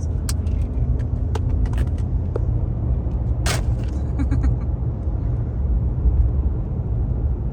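Steady low rumble of a motor vehicle running, with scattered small clicks and one sharper knock about three and a half seconds in.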